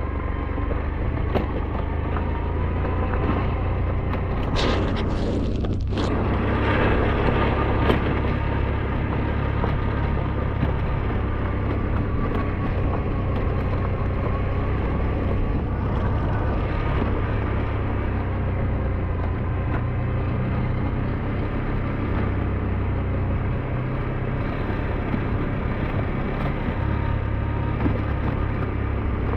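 SYM NH T 200 motorcycle engine running steadily while riding, with a brief change in the sound about five seconds in.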